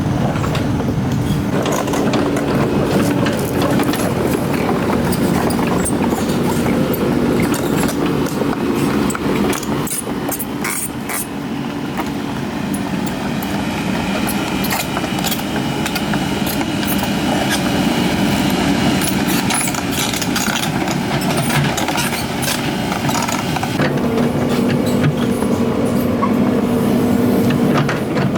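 Tracked excavator's diesel engine running steadily as the machine moves up the mountain track, with metallic clanks and squeaks from the tracks, thickest around the middle.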